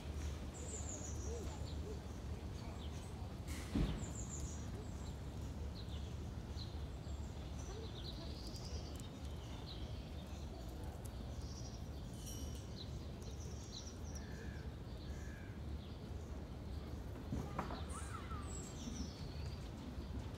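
Small birds chirping on and off over a steady low hum, with one sharp knock about four seconds in.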